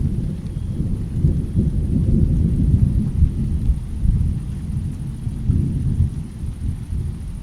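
Thunder rolling in a rainstorm: a deep rumble that builds to its loudest about three seconds in, eases off, then swells again briefly near the end.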